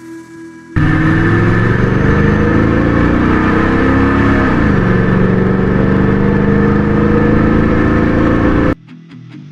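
Pickup truck engine accelerating hard, its pitch climbing and then dropping away about four and a half seconds in before settling into a steady pull. It cuts in suddenly about a second in and cuts off suddenly near the end, with music faintly before and after it.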